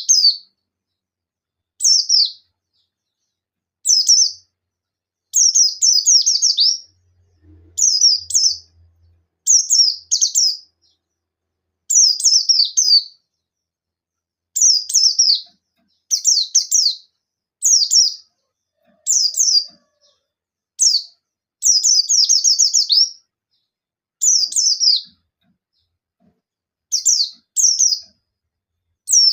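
Buxtoni white-eye (pleci) singing in short, sharp bursts of rapid, high-pitched twittering. Each burst is a quick run of falling notes, one about every two seconds, with silent gaps between. It is the 'nembak' challenge song, loud full song used to call rivals and set other white-eyes singing.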